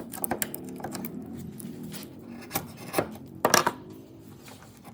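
Wood being worked with hand tools: irregular scraping and rasping strokes mixed with sharp knocks, the loudest knock about three and a half seconds in.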